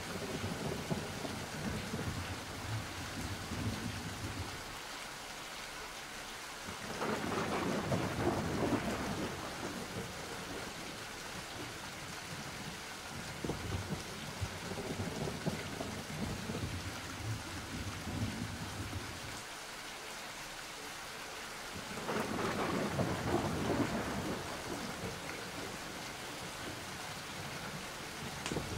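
Steady rain with thunder rumbling twice, about seven seconds in and again about twenty-two seconds in.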